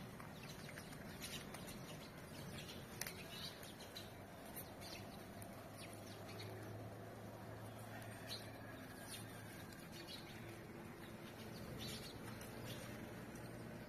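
Young puppies squeaking faintly: short high-pitched squeaks come every second or so, over a low steady hum.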